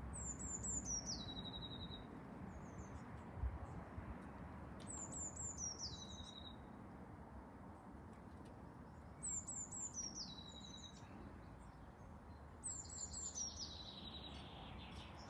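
A songbird singing the same phrase four times, a few seconds apart. Each phrase is a quick run of high notes falling in pitch and ending in a short trill, over a faint steady low rumble.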